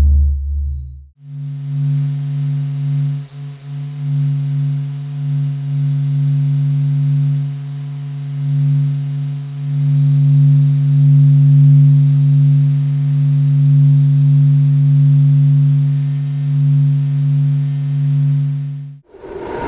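A steady, low droning hum of several held tones that slowly swells and eases, cutting off shortly before the end: a space recording played as sound. A different low pulsing tone ends about a second in.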